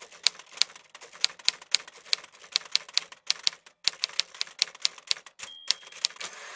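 Typewriter being typed on: a rapid, uneven run of key strikes, with a brief ringing tone about five and a half seconds in.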